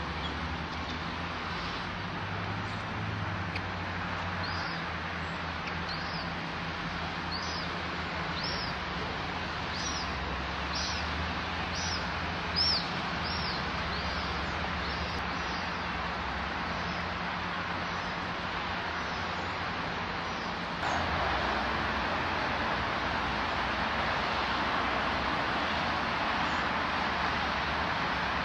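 A small bird repeating a short, high chirp roughly every two-thirds of a second for about ten seconds, over a steady background hiss and low hum; the background gets louder about twenty seconds in.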